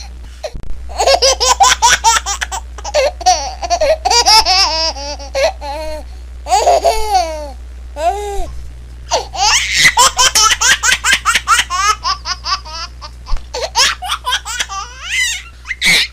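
A baby laughing in rapid runs of high-pitched giggles and squeals, with a brief pause about halfway through. A steady low hum runs underneath.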